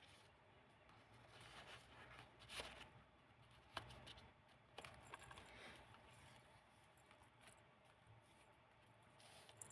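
Faint rustling of old book-page paper as the pages of a handmade junk journal are handled and turned, with a few soft ticks.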